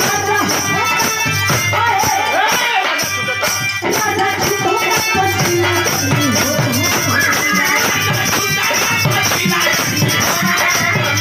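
Indian desi folk song music with jingling hand percussion and a bending melodic line, at a steady, full level.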